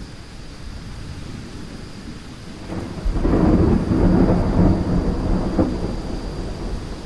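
Thunderstorm with steady rain; about three seconds in, a loud clap of thunder breaks into a deep rumble that rolls on for a few seconds and dies away.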